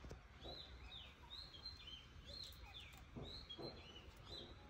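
Faint birdsong: a bird chirping a quick run of short repeated calls, with a low background hush.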